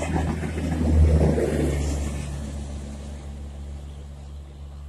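Express passenger train running past on the rails: a low rumble and wheel clatter, loudest about a second in, then slowly fading as it moves away.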